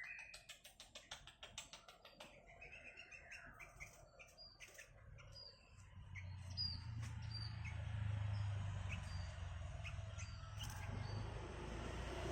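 Sooty-headed bulbul giving short, high chirps scattered through, with a quick patter of clicks in the first couple of seconds. A low steady rumble comes up about six seconds in.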